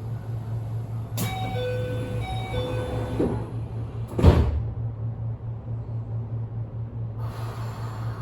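Keio 8000 series train standing at the platform with a steady low hum. A two-note descending door chime plays twice, then the sliding doors close with a loud thump about four seconds in. A hiss starts near the end.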